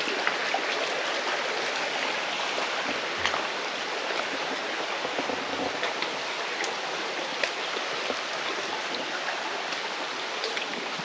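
Mountain stream flowing steadily in a gorge, with small splashes and drips breaking through now and then.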